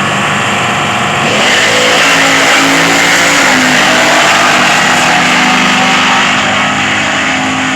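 Drag-racing muscle car engine at full throttle down the strip, loud throughout. Its pitch climbs over the first couple of seconds, then holds high.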